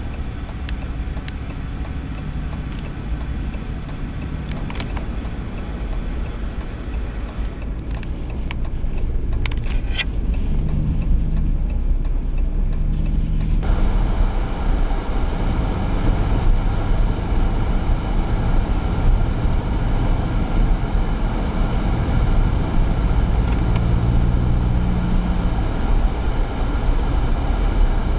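Steady low rumble of a vehicle engine running amid blizzard wind noise. About halfway through, the sound cuts abruptly to a louder, fuller roar of wind and vehicle noise.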